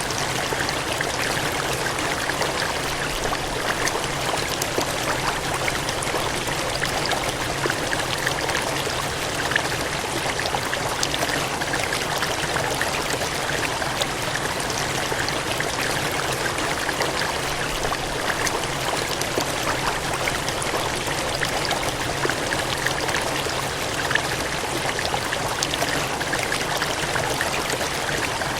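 Gushing, cascading water running in a steady, even rush with fine splashing detail throughout.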